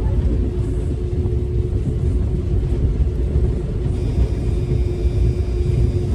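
Steady low rumble of a vehicle in motion, with a constant hum underneath and faint high whining tones joining about four seconds in.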